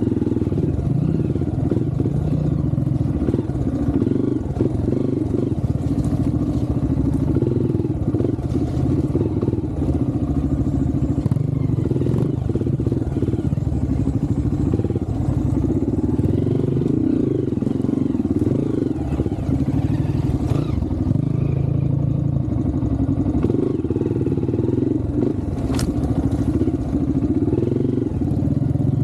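Off-road trail motorcycle engine running steadily as it is ridden, the throttle rising and falling, with scattered knocks and rattles from the bike. One sharp knock comes a few seconds before the end.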